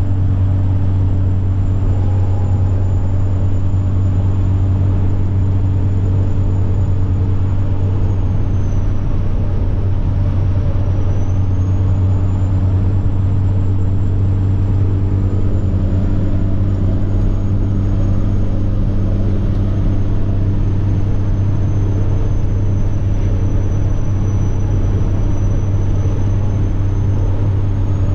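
Semi-truck diesel engine running steadily under way, with a high turbocharger whine over the low engine note. The whine dips in pitch about nine seconds in, comes back up, sags slowly, then rises again near the end.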